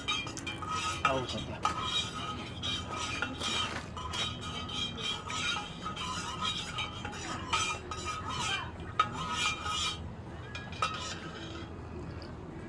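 A metal spoon stirring and clinking repeatedly against tableware.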